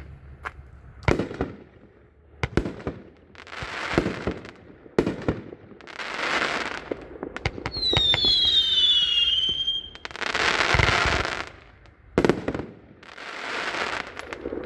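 Consumer multi-shot firework cake firing: a string of sharp bangs and hissing bursts about a second long. A whistle falling in pitch runs through the middle.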